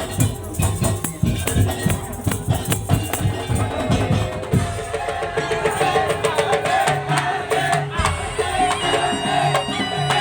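Madurese tong-tong (daul) ensemble playing: wooden slit drums and drums beat in a dense, fast rhythm, then about four and a half seconds in the drumming thins and a held, wavering melody line takes over above a steady bass pattern.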